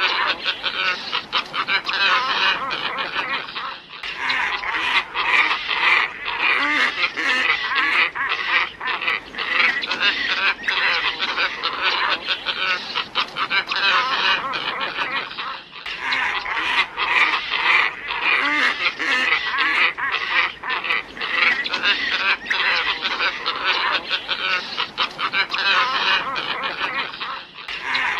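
Glossy ibises calling in a dense chorus of hoarse, overlapping calls, played as a bird-lure recording. Brief breaks about every 12 seconds suggest a looped recording.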